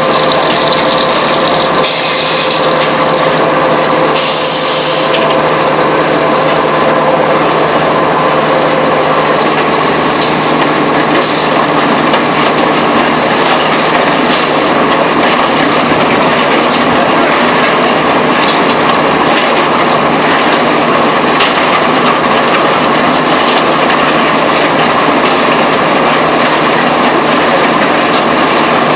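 Concrete batching plant machinery running: a loud, steady mechanical clatter over a constant hum, with a few short knocks.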